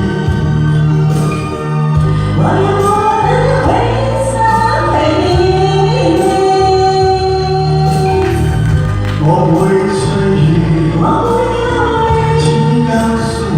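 A song performed live: singing with long held notes over recorded backing music with a steady bass line.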